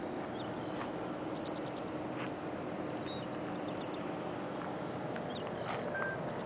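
Small birds chirping: short high calls and quick runs of about five notes, several times, over a steady outdoor background with a faint low hum.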